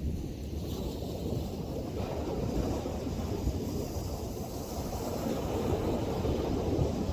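Wind buffeting the microphone over the wash of ocean surf, a steady low rumbling roar that swells a little toward the end.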